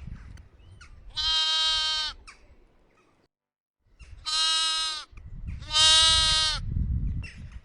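Farm animal bleating: three high-pitched calls of about a second each, the first alone and the last two close together after a brief silence.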